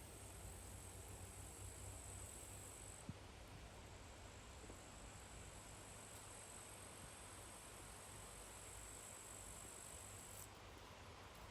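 Faint, high-pitched steady chirring of crickets, which stops about three seconds in and comes back near the end.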